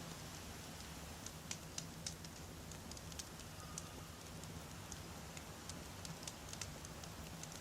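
Wood campfire burning: a steady low rumble under irregular sharp pops and crackles from the burning logs, a few each second.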